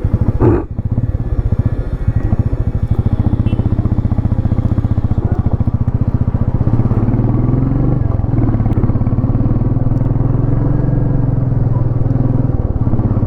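Motorcycle engine running on the move, its separate firing pulses audible at first, then settling into a steady drone whose pitch rises and falls with the throttle.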